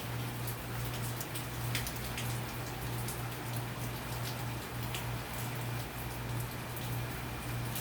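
Steady rain from Hurricane Idalia, an even hiss with scattered sharp drop ticks, over a steady low hum.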